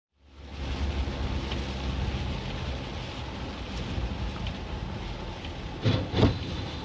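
Steady road and engine rumble of a moving car, as heard from a dash camera, with two sharp thumps in quick succession near the end.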